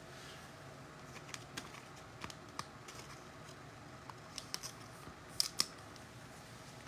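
Faint, scattered clicks and snips of trading cards and card-pack wrappers being handled, several coming in quick pairs, the loudest pair near the end.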